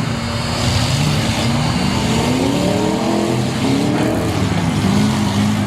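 Off-road vehicle motor revving repeatedly, its pitch climbing again and again about once a second.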